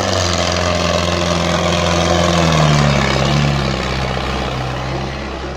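Indo Farm 3055 diesel tractor engine running loudly, its note rising a little about two to three seconds in and then easing off.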